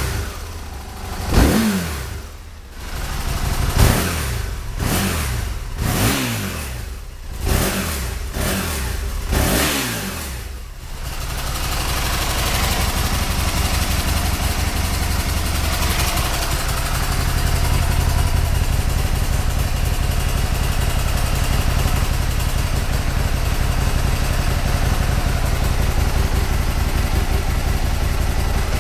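Aprilia SL1000 Falco's 1000 cc 60-degree V-twin revved in a string of short throttle blips, each rising and falling back, for about the first ten seconds. Then it settles into a steady, loud low rumble with a hiss over it.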